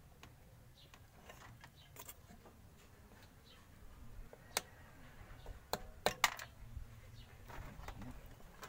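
Scattered small clicks and taps of hand tools working on a TV circuit board while an electrolytic capacitor is taken out, over a faint low hum; a few sharper clicks come in the second half.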